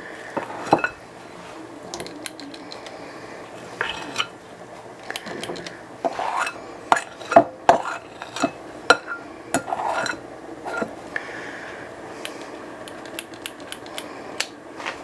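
Small metal ice cream scoop clinking and scraping against the batter bowl and the pot as dumpling batter is scooped and dropped onto the stew, in irregular sharp clicks.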